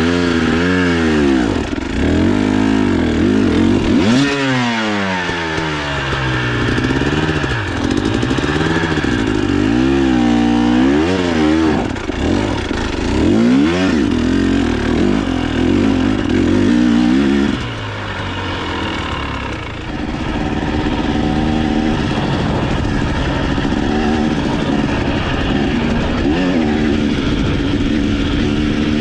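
Dirt bike engine revving up and down again and again as the throttle is worked. About two-thirds in it drops a little in level and settles into a steadier pitch.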